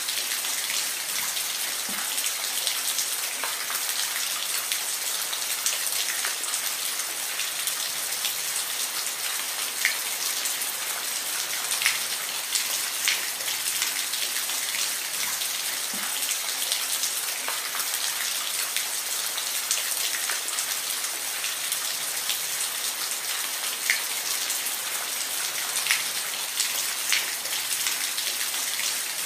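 Steady rain falling and pattering on a surface, an even hiss with scattered louder individual drips.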